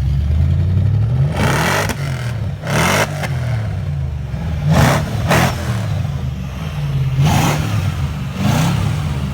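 BMW X5 4.4's V8 engine blipped about six times through its aftermarket Hamann exhaust, each rev rising and dropping back to a steady idle between blips.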